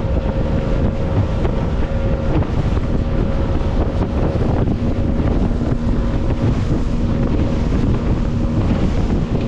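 A motorboat's engine running steadily under way, with strong wind buffeting the microphone and water rushing past.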